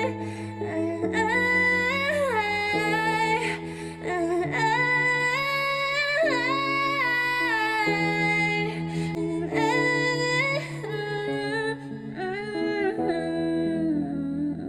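Wordless female humming of a gliding, wavering melody over sustained low chord notes that change every second or two. It cuts off suddenly at the end.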